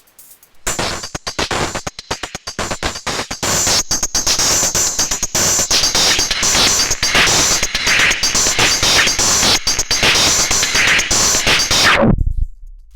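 Eurorack synthesizer patch run through Erica Synths Black series filter modules, a dense, noisy electronic texture chopped by rapid clicks and stutters. It comes in about half a second in. Near the end the filter closes, sweeping the sound down and out.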